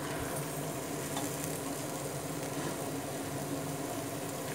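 Fried chicken and onion-tomato masala sizzling steadily in an open steel pressure cooker while a spatula stirs it.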